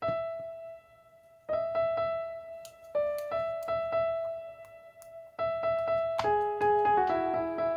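Solo piano music: single high notes held in short phrases, building into fuller chords with a bass line near the end.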